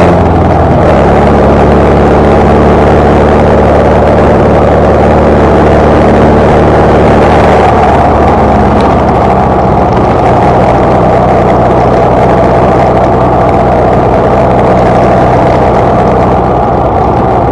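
Birkin 7 Super Seven engine running steadily while driving on the road, under a rush of wind and road noise. The engine note shifts about a second in and again around seven to eight seconds in.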